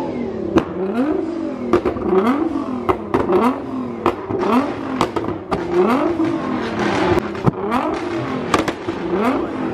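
Lamborghini Aventador SVJ's V12 with a Gintani F1 exhaust being blipped over and over, its pitch rising and falling about once a second, with sharp pops and cracks from the exhaust between blips.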